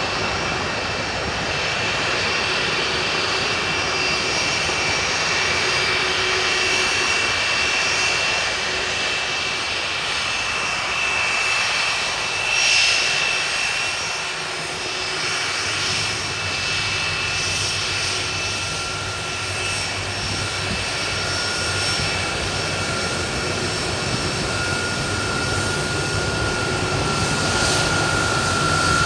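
Boeing 747-400's four jet engines running with a steady rushing noise and a high whine; a second, lower whine grows louder over the last third.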